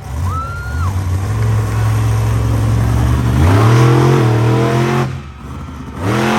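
Monster truck engine running hard, then revving up sharply about three and a half seconds in and holding high before it drops off about five seconds in.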